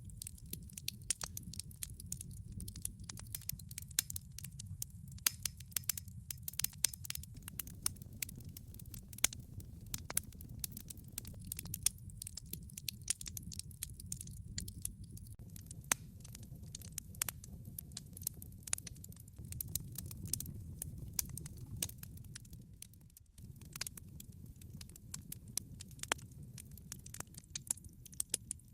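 Wood log fire burning in a fireplace: irregular sharp crackles and pops of burning wood over a steady low rumble of the flames.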